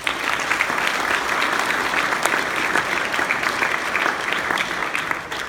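Audience applauding: steady clapping that begins abruptly and starts to die away near the end.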